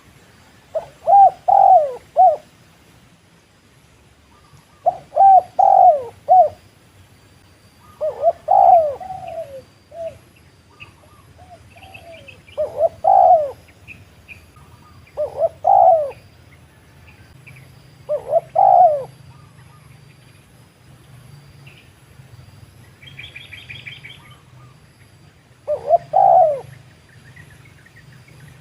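Spotted dove cooing: seven short phrases of a few coos each, repeated every few seconds. A brief higher twittering from another bird comes in late on, over a faint steady hum.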